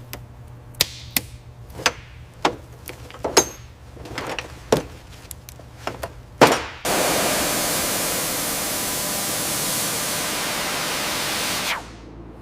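Small hard parts clinking and knocking about a dozen times, as in shop work on metal parts. Then, about seven seconds in, a loud, steady hiss of a high-pressure blast starts suddenly and cuts off abruptly about five seconds later.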